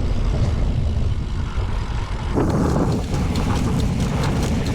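Wind buffeting the microphone while riding a BMX bike, a loud steady rumble, with a rattle of ticks and knocks joining about halfway.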